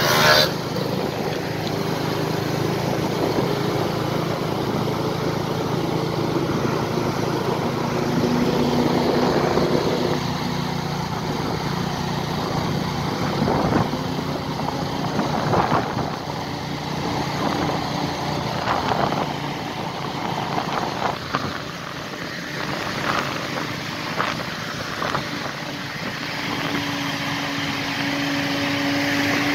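Truck engine running steadily under load on a steep climb, with a few short knocks and clatters along the way. A brief sharp noise comes right at the start.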